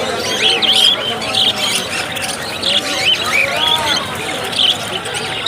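Many small caged birds chirping and squawking at once: a dense, overlapping chatter of short high calls, repeated without pause.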